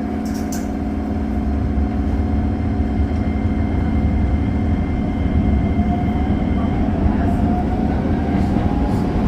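Running noise of a Keisei commuter train heard from inside the car: a steady low rumble with a motor whine that rises slightly in pitch over the last few seconds.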